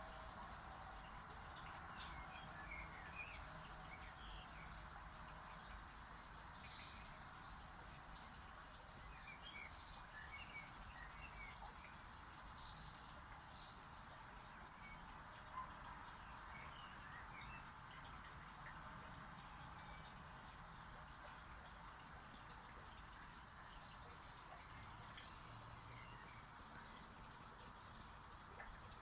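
Small birds giving short, very high-pitched cheeps, one roughly every second at uneven intervals, over a steady background hiss.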